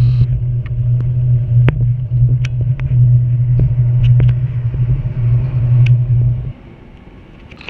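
Moving train heard from an open coach door while passing another diesel-hauled train: a loud steady low drone with scattered sharp clicks from the wheels and rails. About six and a half seconds in the drone cuts off suddenly, leaving a much quieter rumble.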